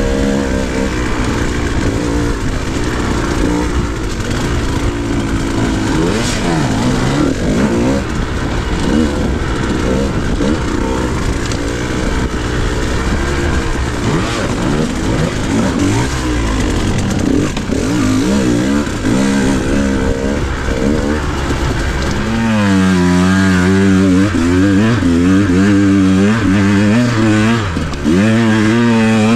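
Dirt bike engine being ridden, its pitch rising and falling with throttle and gear changes over heavy rumble and wind noise. About two-thirds of the way in the rumble drops away and the engine note stands out more clearly, revving up and down.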